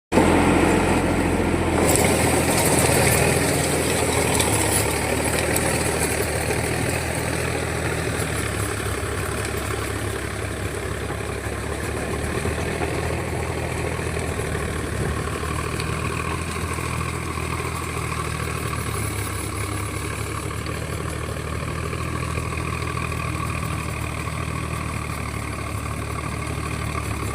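Tractor engine running steadily while pulling a plough through a field.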